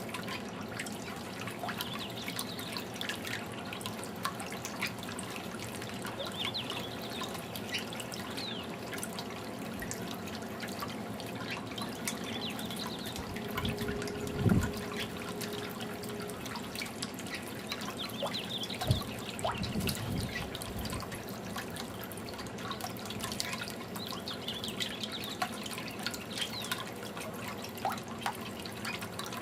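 Fountain water trickling and dripping steadily, with a few dull low thumps near the middle.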